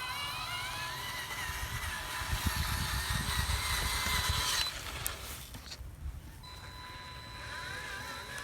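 Remote-control construction truck running, its small electric motors giving a steady high whine over an uneven low rumble. The sound drops away abruptly a little under five seconds in, with a sharp click, and the whine returns about a second and a half later.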